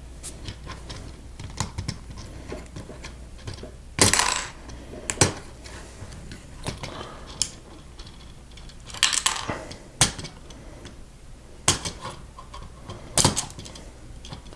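Plastic LEGO pieces clicking and clattering as they are handled and pressed together, irregular small clicks with a few louder clatters.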